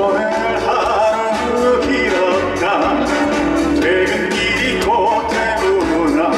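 Live trot song played loud through a PA, with a male vocalist singing over the band backing.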